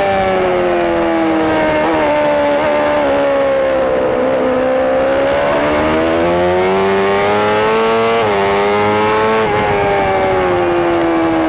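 Superbike engine heard on board at racing speed, revs swinging with the track. The pitch falls through the first few seconds with a couple of short blips near two seconds in, climbs again through the middle, steps once just after eight seconds, then falls again near the end.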